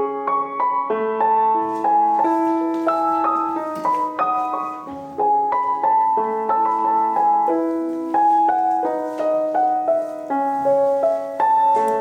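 Soft piano music: single notes and chords played in a gentle, flowing pattern.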